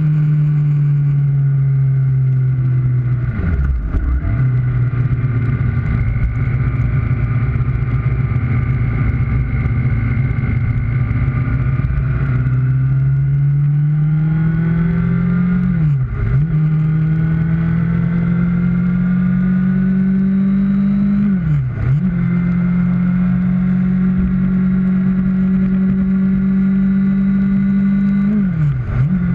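Kawasaki Ninja ZX-6R's inline-four engine running under way, its note climbing slowly and dipping sharply four times at gear changes, over steady wind noise.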